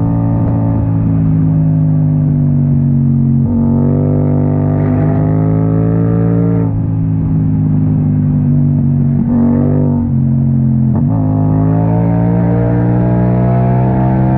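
Yamaha MT-07's parallel-twin engine running loudly through an open Akrapovic exhaust while riding under load. Its pitch drifts and breaks briefly a few times as the revs change.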